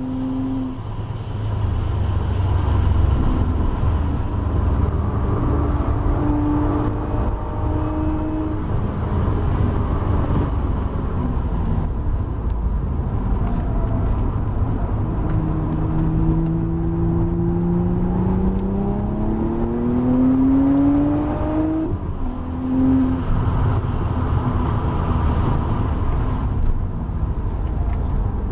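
In-car sound of an Audi B5 RS4's twin-turbo V6, tuned to about 20 psi of boost, lapping a circuit at full speed, with road and wind noise underneath. The engine runs hard, eases off under braking into a corner, then pulls with its note rising steadily for several seconds until a quick gear change cuts it off, and pulls again.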